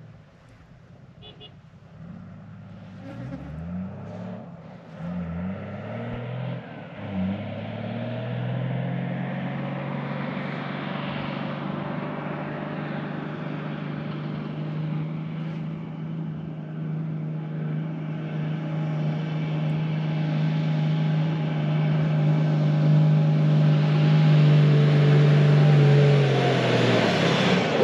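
Four-wheel-drive's engine labouring up a steep, soft sand climb. The revs rise in steps through the gears over the first several seconds, then hold a steady, high note under load that grows louder. The revs drop away near the end as the vehicle reaches the top.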